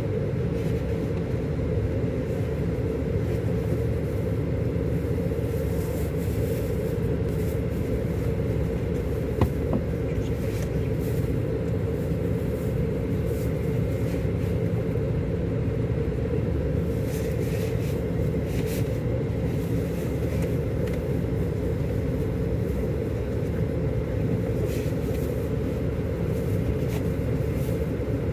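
Diesel engine of a Scania K400 Euro 5 coach running steadily, a low, even drone with no change in pitch. There is a single sharp click about nine and a half seconds in.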